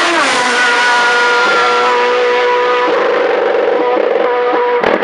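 Racing car engine at high revs on a hillclimb: its pitch drops sharply at the start, then holds steady and high, with a few sharp cracks near the end.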